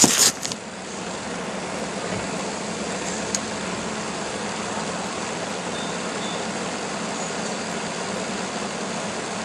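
A steady engine-like hum with a constant low tone, after a brief burst of crackling right at the start.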